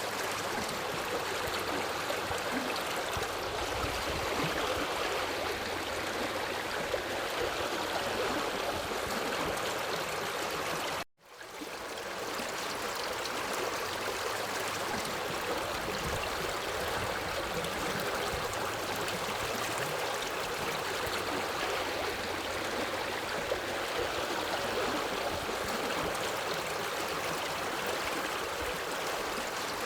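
Forest river flowing, a steady rush of water. About eleven seconds in the sound cuts out completely for a moment and fades back in, an edit splice in the recording.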